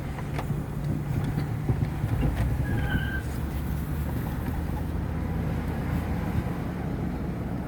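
Truck engine running with a steady low drone while driving, with scattered knocks and rattles and a brief high squeak about three seconds in. The truck is not shifting, as the driver puts it.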